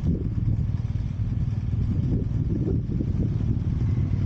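GS motorcycle engine running steadily while the bike is ridden along.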